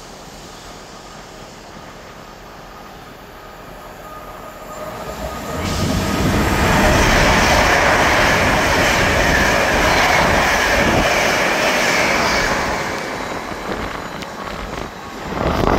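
An LNER Azuma express train passes through the station at speed. The rushing rail and wheel noise builds from about four seconds in, holds loud for roughly seven seconds, then fades, and the noise swells again briefly near the end.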